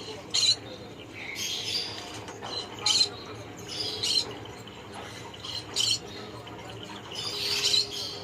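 A conure calling: about six short, sharp, high-pitched chirps and squawks, spaced a second or so apart, one of them longer, near the end.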